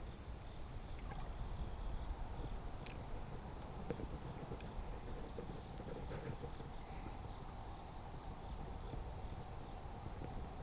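Insects trilling high and shrill at the riverside, swelling louder in stretches of a second or so, over a steady low rumble.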